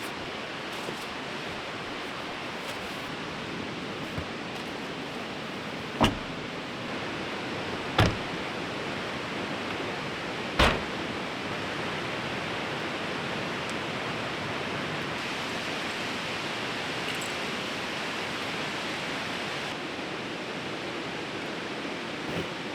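Fast-flowing river rushing steadily. Three sharp thumps stand out about six, eight and ten and a half seconds in.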